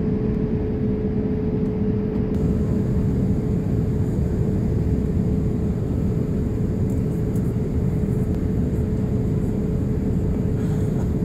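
Steady cabin noise of a Boeing 787-8 airliner in flight: an even rush of air and engine noise with one steady tone running through it.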